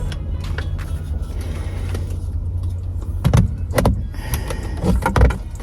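Car idling, a steady low hum heard from inside the cabin, with a few sharp plastic knocks and clicks about three seconds in and again near the end as a dashboard fitting is handled and pushed back into place.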